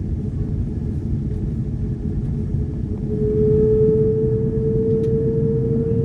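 Cabin noise inside an Airbus A330-200 on the ground: a steady low rumble with a steady engine tone that fades out, comes back about three seconds in and slowly rises in pitch.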